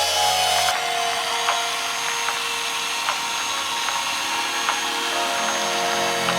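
Handheld electric machine polisher running steadily.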